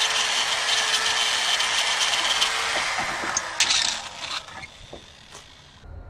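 A power tool abrading rust off metal brake parts: loud scraping over a steady motor whine. The whine stops about three seconds in, and the scraping fades out after one more short burst and a few knocks.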